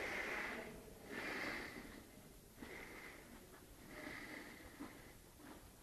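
Horse snorting: a series of breathy blows, about one a second, loudest at the start and fading.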